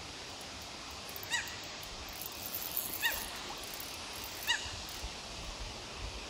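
A bird calling three times, short chirps about a second and a half apart, over a steady background hiss.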